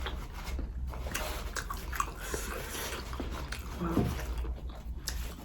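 Close-up eating sounds: biting and chewing a chicken roll, with scattered small wet mouth clicks and smacks. A short voiced murmur comes about four seconds in.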